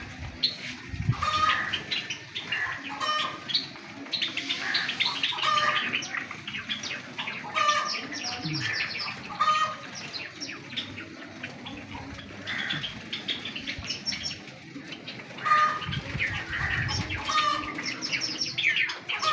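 A colony of Java sparrows chirping constantly, many short high calls overlapping, with wings fluttering among them.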